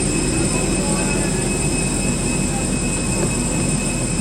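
Jet aircraft turbine running near a parked airliner during boarding: a steady loud drone with several high, steady whining tones.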